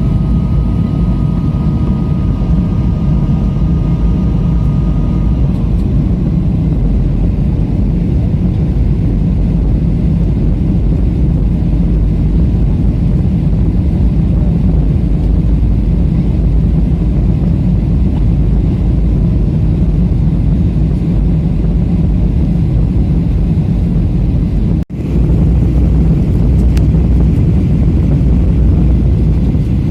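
Steady low roar of jet airliner cabin noise on the approach for landing: engine and airflow noise heard from inside the cabin. A faint whining tone sits over it for the first few seconds, and the sound cuts out for an instant near the end.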